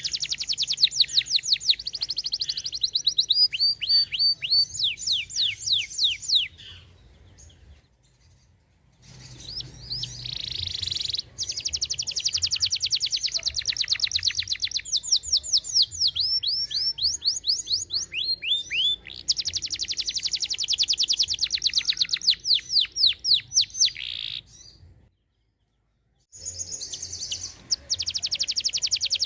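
Domestic canary singing long, fast rolling trills of rapidly repeated high notes and quick up-sweeping chirps, breaking off briefly about a third of the way in and again near the end.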